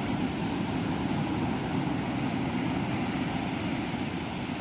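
Steady low rushing noise of wind and sea on an open beach, with the wind rumbling on the microphone.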